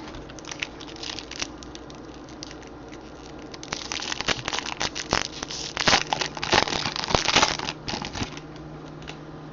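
Foil wrapper of a trading-card pack being torn open and crinkled by hand, a dense crackling run from about four to eight and a half seconds in, after a few light clicks of card handling.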